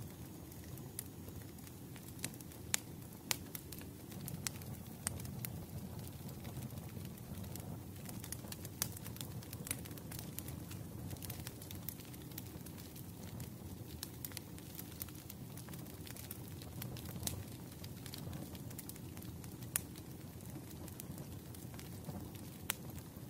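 Wood fire crackling in a fireplace: sharp, irregular pops and snaps over a steady low background.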